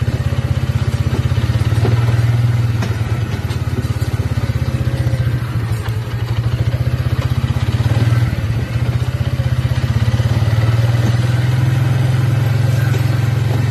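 Small vehicle engine running steadily at low speed while hauling logs on a log arch, with a low, even rumble that dips briefly twice, and a few light knocks and clatter.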